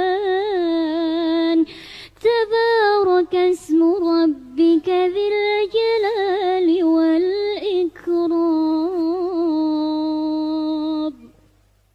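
A single voice reciting the Quran in a melodic, drawn-out tajwid style, holding long ornamented notes with short breaths between phrases. The recitation stops about 11 seconds in.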